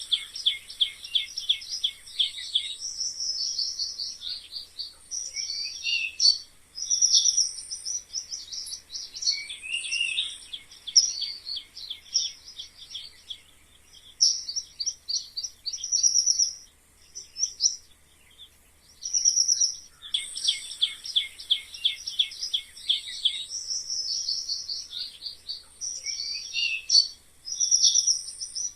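Mice squeaking: rapid runs of high-pitched squeaks and chirps, broken by short pauses.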